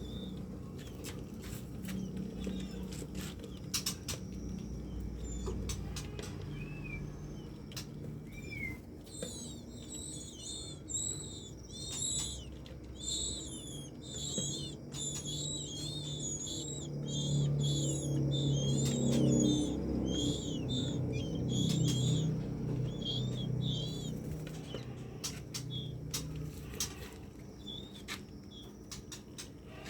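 White-rumped shama nestlings begging: rapid, high, repeated short chirps, a few every second, starting about nine seconds in and dying away near the end, as the female comes to feed them. Scattered clicks and a low hum run underneath.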